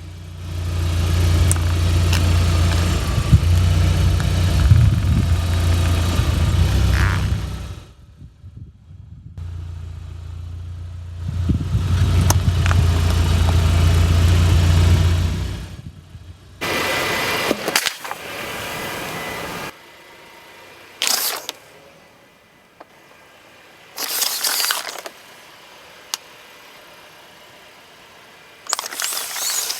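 A car's engine running in two long stretches, with sharp cracks and crunches over it as the car rolls over and crushes objects. Then come several separate short bursts of noise.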